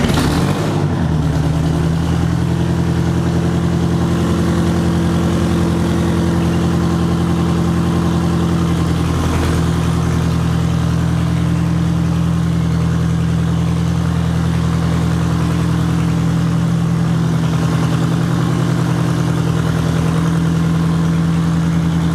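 Detroit Diesel engine catching on a cold start and settling within about a second into a steady, loud idle, the idle easing slightly lower about nine seconds in.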